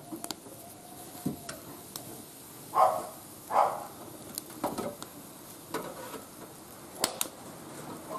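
Wood fire burning in a barbecue grill, crackling with scattered sharp pops over a low hiss. Two short, louder scraping noises come about three seconds in.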